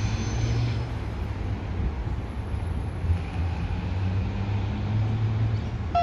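Low, steady rumble of a Melbourne Metro electric suburban train approaching along the tracks toward the platform.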